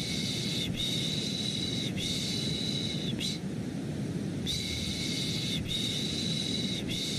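Rhythmic baby-soothing shushing, drawn-out 'shh' sounds of about a second each, over a steady white-noise bed. Three shushes come in a row, a pause of about a second follows, then the next group of three begins.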